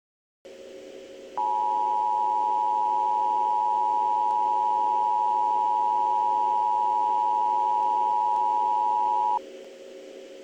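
Emergency Alert System attention signal: two steady tones sounded together, starting about a second in and cutting off sharply about eight seconds later, over a faint steady background hum.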